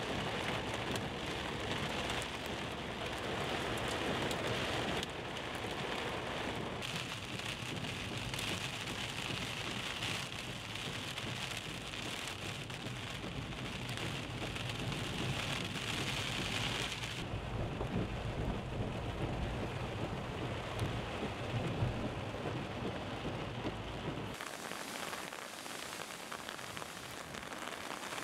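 Heavy rain pouring down in a storm, a dense steady hiss over a deep rumble. Its character shifts abruptly several times where clips are cut together, and the deep rumble drops away near the end.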